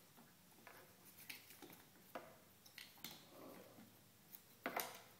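Near silence with a few faint, scattered clicks and taps of cardboard jigsaw puzzle pieces being handled, one sharper tap near the end.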